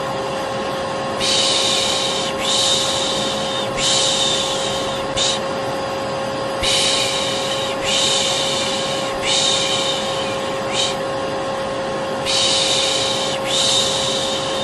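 Vacuum cleaner running steadily with a constant hum, overlaid by a voice shushing 'shh' to soothe a baby: three long shushes and a short one, repeating about every five and a half seconds.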